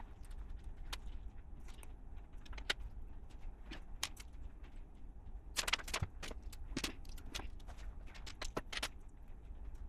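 Small plastic LEGO pieces clicking and clattering as they are handled and pressed together, in scattered single clicks with a quicker flurry about halfway through and another near the end.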